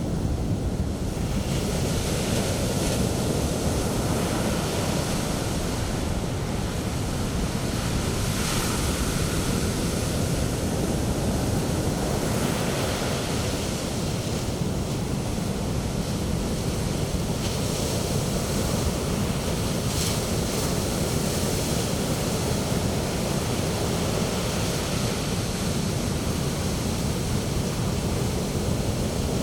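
Sea waves breaking and washing up a sand beach in a steady roar, with wind buffeting the microphone. The hiss of foaming surf swells now and then, about a third of the way in and again near the two-thirds mark.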